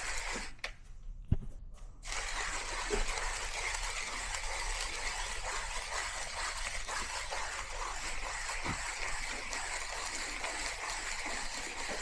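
Water running in a steady stream, stopping briefly about half a second in and starting again a moment later, with a short knock soon after it stops.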